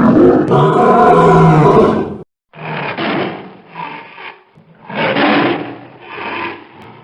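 Lion roaring: one long, loud roar, then four shorter, quieter roars about a second apart.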